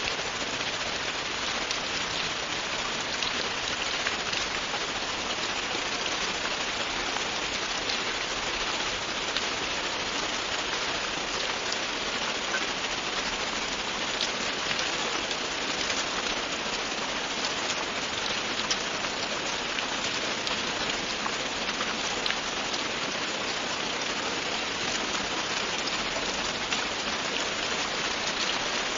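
Steady rain falling on a surface, a dense even hiss with many fine drop ticks and no thunder.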